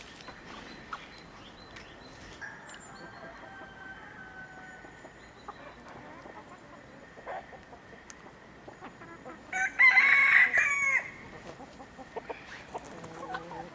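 Chickens clucking and calling in the background, with a rooster crowing loudly once, about a second and a half long, near the ten-second mark.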